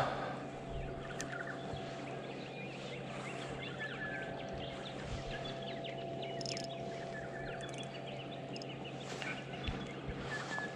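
Birds chirping and calling in the background, many short quick chirps, over a steady low hum.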